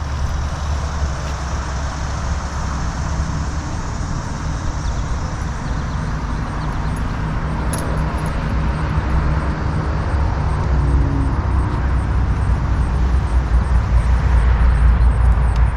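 Steady low rumble of a motor vehicle running, growing a little louder near the end.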